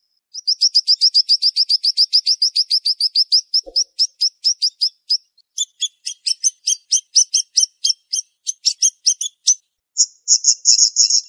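A siri-siri songbird singing in rapid, sharp bursts. It opens with a fast run of about ten short down-slurred notes a second, then slows to spaced multi-part notes, and near the end breaks into a quick buzzy trill.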